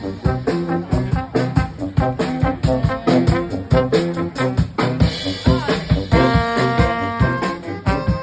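Brass band playing an upbeat swing-style tune, trombone and trumpets over a steady drum beat. About six seconds in, the horns move to long held notes.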